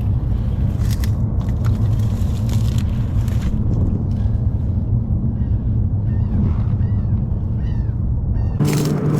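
A steady low rumble with clicking and crackling over it for the first few seconds, then a run of short, repeated chirping calls from about four seconds in. Near the end the sound switches abruptly to a steadier hum.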